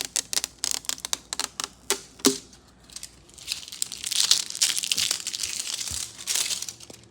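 Packaging being torn open and crinkled: a quick run of sharp crackles and snaps, then after a short lull a longer stretch of dense crinkling.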